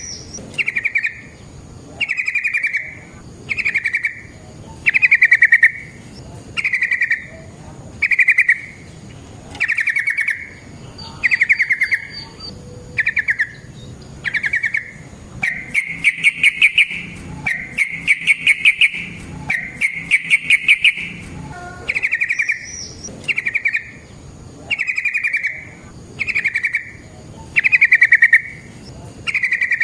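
Yellow-vented bulbul singing: short bubbling trilled phrases, about one every second and a half, with three longer rolling phrases midway.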